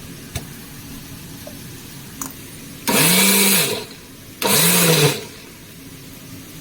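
Electric mixer grinder run in two short pulses of about a second each, its motor pitch rising and falling with each pulse, grinding chopped tomatoes into a paste. A few light knocks before the first pulse.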